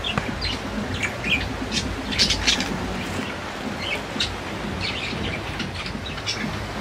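Caged birds chirping in short, scattered calls, over a low rumble of wind on the microphone.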